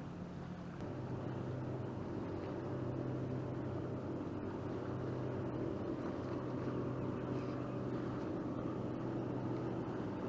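A motorboat engine running steadily, a low hum that gets a little louder about a second in and then holds an even pitch.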